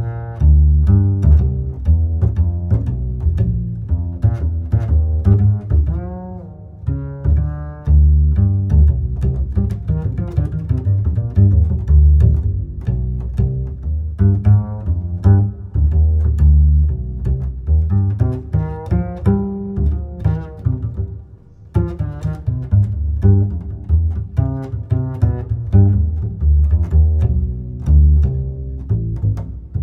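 Music: low string instruments, cello and double bass, playing bowed and plucked notes.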